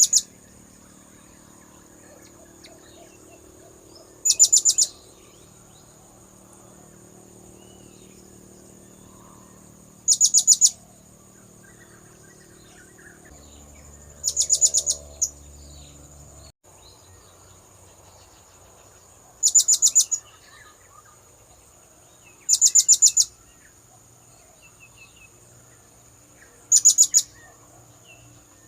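Blue-crowned hanging parrot (serindit) calls used as a lure: short bursts of rapid, very high-pitched notes, each about half a second long, repeating every three to six seconds.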